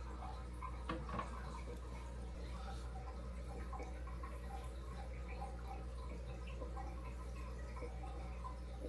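Aquarium water trickling and dripping: a continuous patter of small plops and gurgles over a steady low hum. There are two short knocks about a second in.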